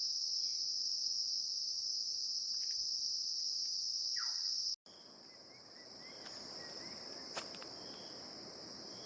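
A steady, high-pitched insect drone from the forest. It cuts out abruptly about halfway through, then comes back quieter, with a few faint chirps and a single short click.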